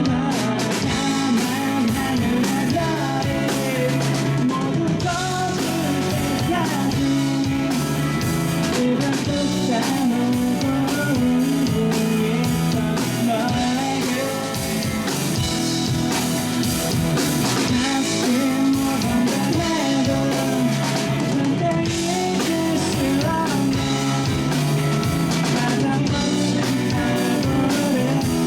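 Rock band playing live: electric guitars and a drum kit, with a singer.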